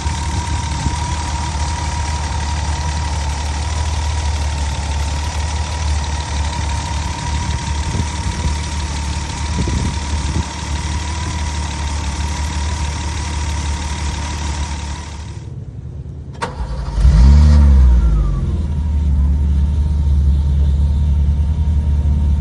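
BMW 325i straight-six idling shortly after a cold start, a steady drone with a thin high whine over it. About 16 s in the sound drops out briefly, then the engine gives one loud rev that rises and falls and settles back to a steady idle.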